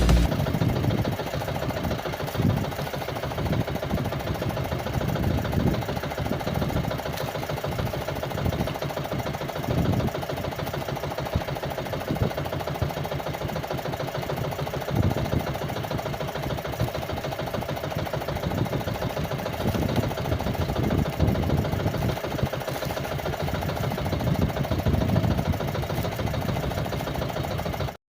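A small engine running steadily with a rapid, even chugging, with a few brief swells in loudness; it cuts off suddenly at the end.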